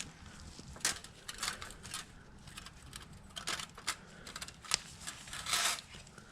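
Metal head gasket being worked down over the cylinder studs of a Yamaha Banshee engine: scattered light metallic clicks and taps, with a brief scrape about five and a half seconds in.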